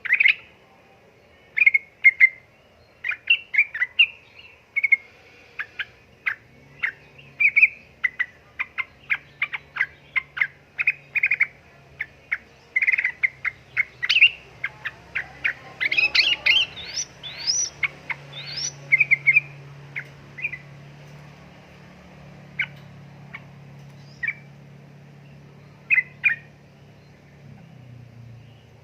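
Yellow-vented bulbul (trucukan) calling: a rapid series of short chirps, busiest about halfway through with quick upward-sweeping notes, then thinning to occasional chirps over the last third.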